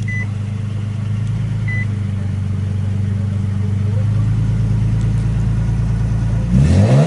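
A car engine idling steadily, then a quick rev near the end that rises in pitch and falls back.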